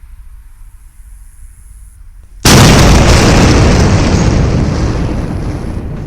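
Tannerite charge detonating about two and a half seconds in: one sudden, very loud blast followed by a long rumble that slowly fades.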